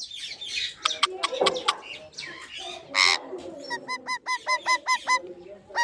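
Indian ringneck parrot calling: scattered clicks and chatter, a harsh squawk about three seconds in, then a quick run of about eight short repeated calls.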